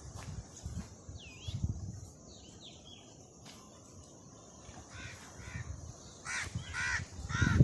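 A crow cawing repeatedly, about six harsh caws in the second half, after a few short whistled bird calls early on. Low rumbles come and go underneath.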